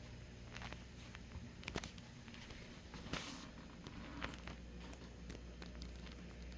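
Faint clicks, knocks and a short rustle from handling things on a workbench, over a low steady hum.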